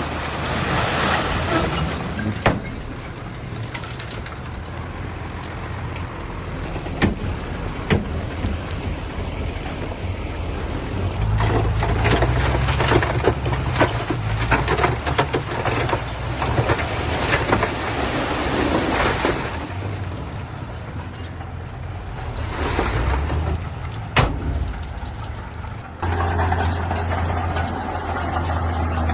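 Heavy earthmoving machinery's diesel engine working. It grows louder with dense clattering in the middle, with several sharp metallic knocks, and near the end shifts suddenly to a steadier low drone.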